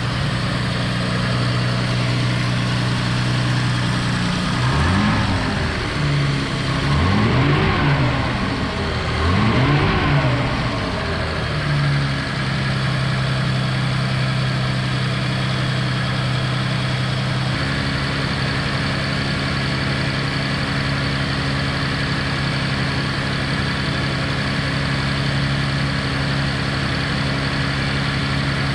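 1955 Jaguar XK140's 3.4-litre twin-cam straight-six running on a steady cold-start fast idle, held up by its auxiliary starting carburettor while the engine is still cold. Its revs rise and fall about three times a few seconds in, then settle back to the even fast idle.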